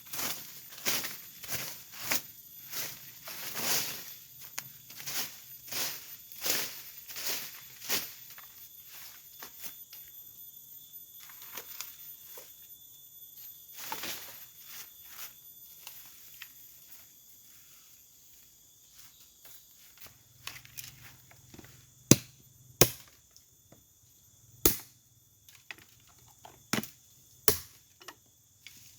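Chopping strokes on wood, about one and a half a second for the first eight seconds; then, after a quieter stretch, five sharp, louder chops near the end. A steady high insect drone runs underneath.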